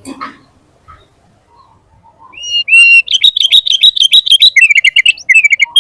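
Sooty-headed bulbul (kutilang) singing: about two seconds in, loud song begins with two clear whistled notes, then a fast run of quick high notes, then a series of lower quick notes.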